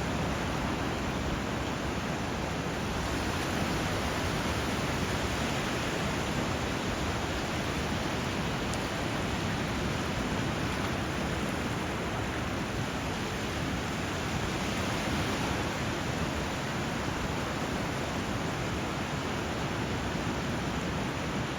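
Steady rushing water, a constant even hiss and rumble with no rise and fall.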